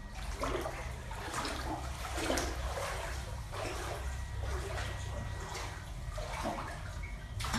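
Water splashing and sloshing in a pool in repeated surges about once a second, as a swimming cat paddles, over a steady low rumble.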